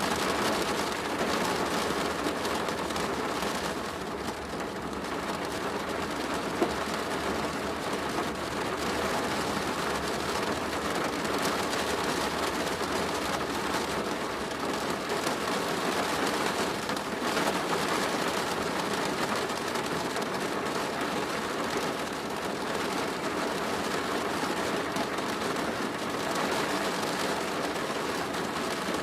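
Steady rain pattering on a plastic roof, an even dense hiss of drops, with a single sharp tick about six and a half seconds in.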